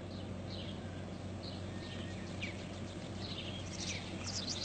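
Birds chirping with short, quick calls and a rapid trill, growing busier and louder near the end, over a steady low hum.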